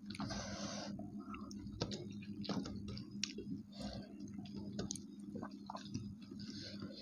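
People chewing mouthfuls of rice and curry eaten by hand, with wet squelches and many small clicks as fingers work the food on steel plates. A brief hiss comes about a second in, over a steady low hum.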